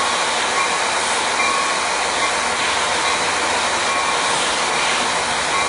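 Coaster commuter train's bilevel passenger cars rolling past as the train pulls out of the station: a loud, steady noise of steel wheels on the rails.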